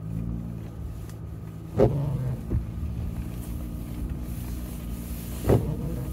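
Jeep Gladiator engine running steadily at low revs, heard from inside the cab. The windshield wipers sweep on an intermittent setting, each sweep a brief loud stroke, about two seconds in and again near the end.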